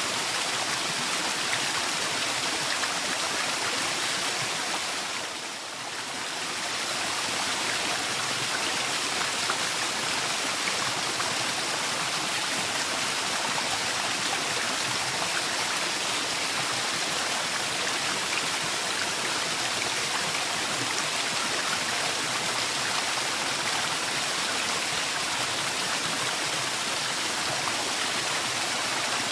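Waterfall: a steady rush of falling water. The sound softens briefly about five seconds in, then returns to full strength.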